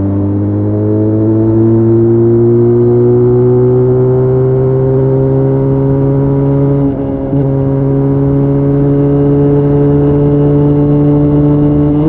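Benelli Leoncino 500 motorcycle's parallel-twin engine pulling under load, its pitch rising slowly for about seven seconds. The sound breaks off briefly about seven seconds in, then the engine holds a nearly steady pitch.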